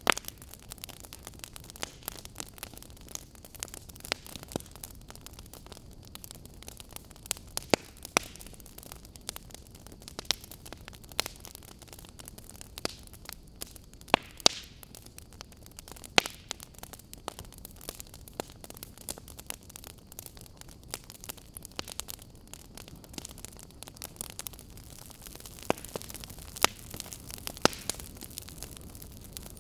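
Wood fire burning: irregular sharp crackles and pops over a steady soft hiss, with a few louder pops standing out.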